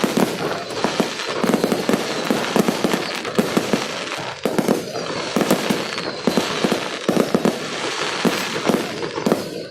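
Fireworks display: a dense, continuous barrage of bangs and crackles, several strikes a second.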